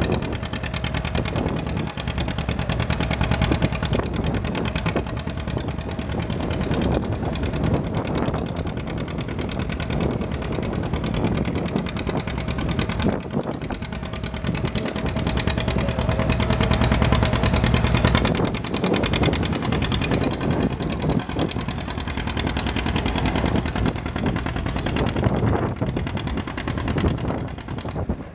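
Antique farm tractor engine running hard, most likely under load pulling a weight sled; it grows louder about two-thirds of the way through.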